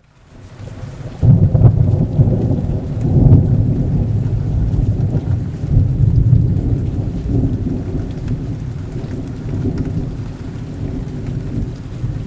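Rain falling with deep rolling thunder. The rumble swells sharply about a second in and again a few times, then slowly eases.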